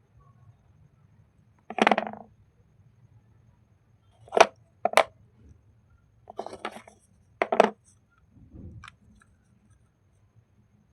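Slate pencil clay bars crunching and snapping: about six short, crisp crunches over several seconds, the loudest one about two seconds in.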